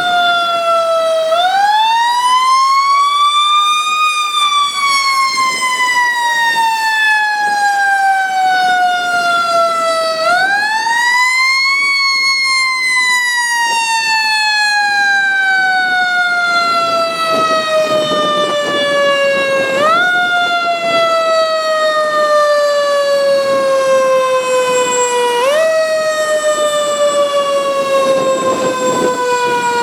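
Fire truck siren wailing: its pitch climbs quickly twice, then sinks slowly each time, and it is given two short upward kicks in the later part as it keeps winding down.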